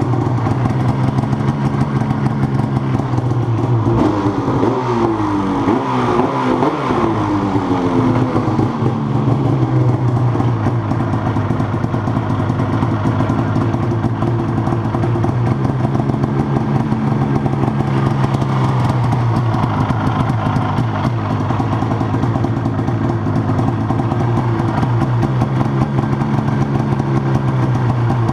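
2019 Arctic Cat ZR 8000 snowmobile's 800 two-stroke twin running through a freshly fitted MBRP race can exhaust. It is revved up and down a few times from about four to nine seconds in, then idles steadily.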